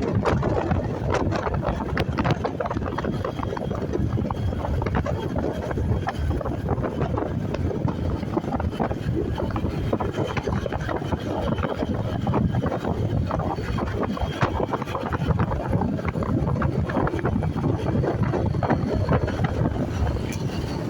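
Wind buffeting the microphone during a motorcycle ride, over steady engine and road noise.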